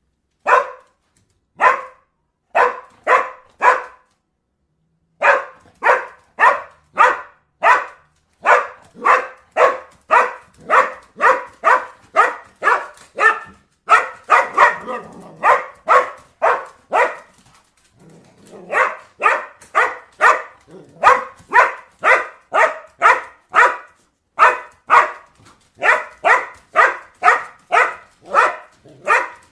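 A dog barking in long, rapid runs of about two barks a second, with short pauses between runs.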